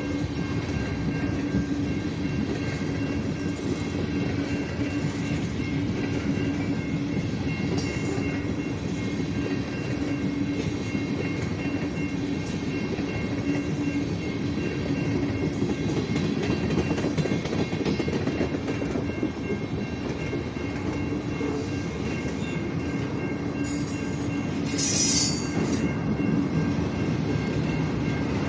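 A freight train rolling past on the rails with a steady, unbroken running noise. A brief high-pitched screech comes about twenty-five seconds in.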